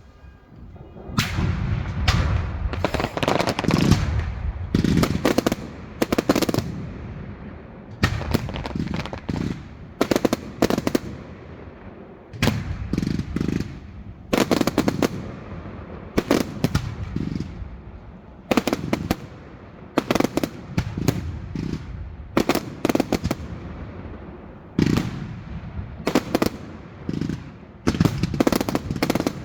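Fireworks going off in quick volleys of sharp bangs and crackles, with short gaps between the clusters.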